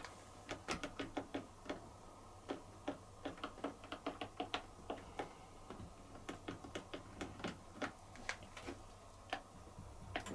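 Rapid, irregular clicking, about two to three sharp clicks a second, with a faint steady low hum underneath.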